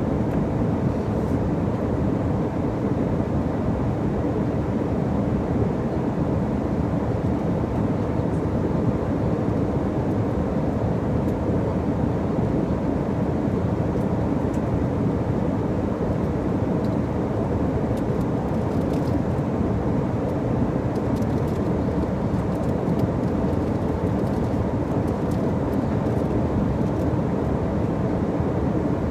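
Steady cabin noise of an airliner in flight: an even rush of engine and airflow noise, mostly low in pitch, with a few faint ticks.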